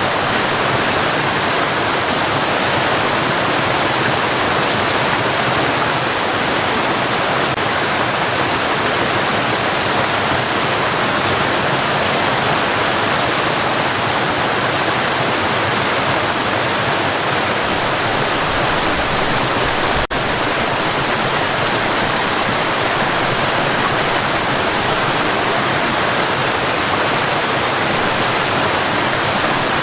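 Steady, even white-noise hiss used as a sleep sound, with one brief dip about two-thirds of the way through.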